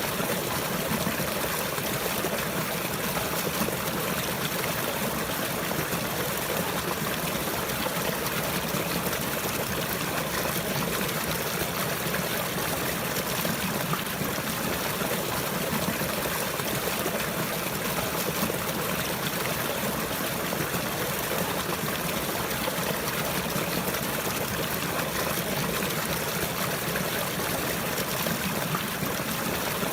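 Running water trickling and flowing steadily, an even, unbroken rush.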